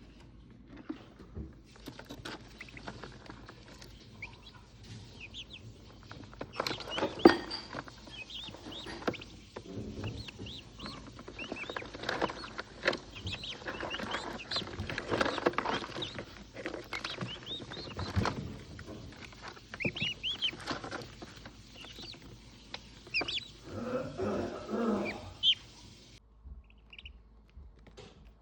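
Two-day-old turkey poults peeping, many short high peeps, with scattered knocks and rustling; the loudest knock comes about 7 seconds in, and it quietens near the end.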